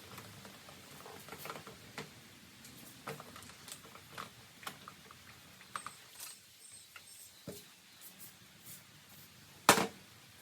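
Scattered light clicks and taps of small parts and tools being handled, with one louder sharp knock near the end.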